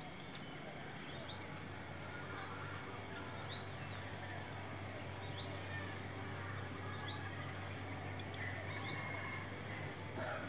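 Rural outdoor ambience: a steady high-pitched drone of insects, with a short rising bird chirp repeating about every two seconds.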